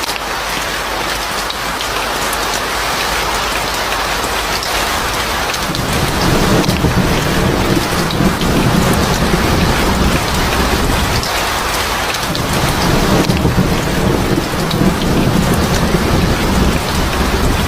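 Steady heavy rainfall hissing, joined about six seconds in by a low, rolling rumble of thunder that keeps going to the end.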